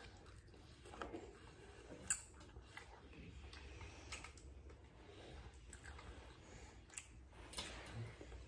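Faint, irregular crunches and clicks of someone chewing crispy fried chicken and handling pieces in a cardboard bucket.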